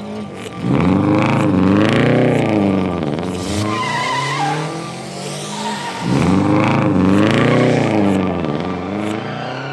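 Sound effect of a car engine revving, its pitch rising and falling in two long runs, with a brief high squeal about four seconds in.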